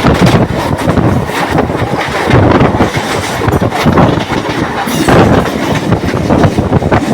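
Train running along the track: a loud, continuous rumble with rapid, irregular clattering of the wheels over the rails.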